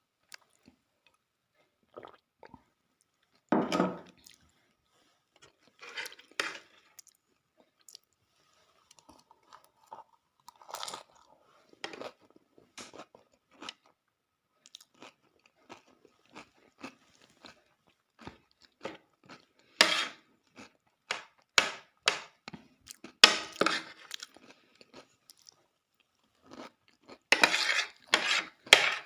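Close-up crunching and chewing of dahi puri, crisp puri shells filled with yogurt, in irregular bites with a few louder crunches, the loudest near the end.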